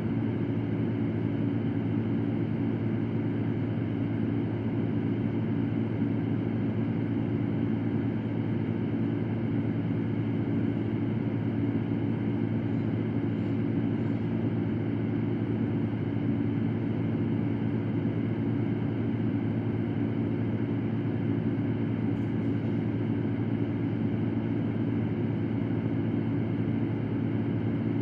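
Electric fan running steadily: a low, even hum under a constant rush of moving air.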